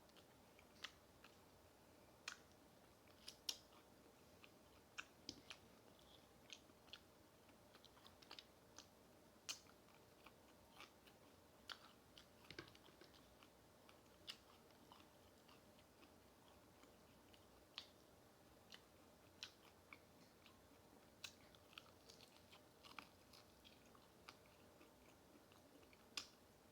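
Close-miked chewing and biting of crispy fried food: irregular sharp crunches and mouth clicks, some louder than others, with short pauses between them.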